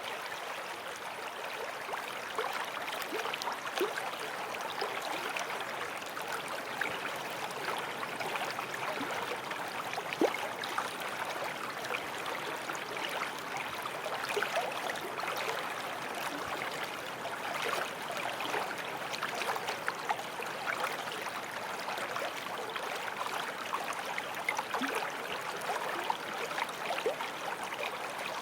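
Small forest stream flowing steadily over stones, a continuous rush of water with many small splashes and gurgles.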